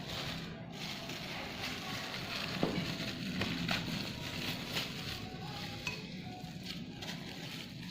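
Crinkling and rustling of plastic takeaway bags of bakso being handled and opened, with scattered small clicks and crackles.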